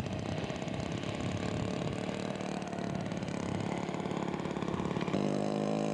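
Radio-control model airplane engine idling with a rough, uneven rumble. About five seconds in, a steady, even-pitched engine drone comes in.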